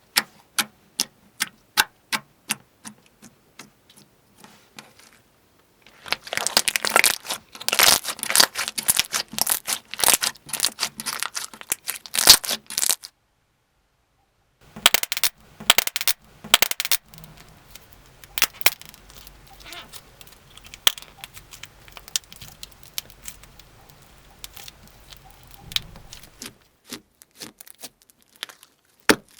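Slime being pressed and squeezed close to the microphone, making sharp clicks and pops at about two a second, then bursts of dense crackling. The sound stops dead for a moment about halfway through, then more crackling follows and thins out to scattered clicks.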